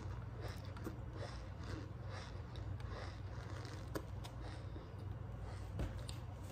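Chewing of compressed cornstarch chunks: a squeaky, lightly crunchy sound repeating about twice a second, with a sharper click about four seconds in and another near the end. A low steady hum runs underneath.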